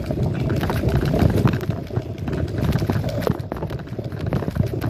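Wind buffeting the microphone of a riding mini bike, with a steady rumble and irregular rattling knocks as the bike goes over the ground.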